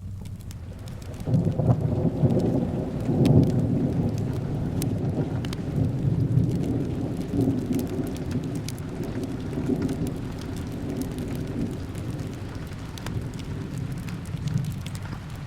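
A long roll of thunder over steady rain: the rumble swells about a second in, is loudest a couple of seconds later, and slowly dies away. Sharp little crackles from a fireplace are scattered through it.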